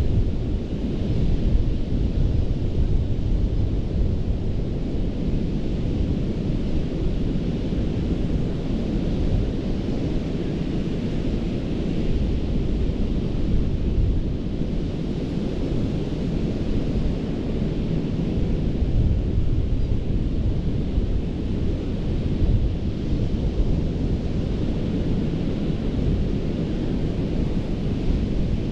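Ocean surf washing onto a sandy beach: a steady rush with a deep low rumble underneath and a hiss that swells gently now and then as waves break.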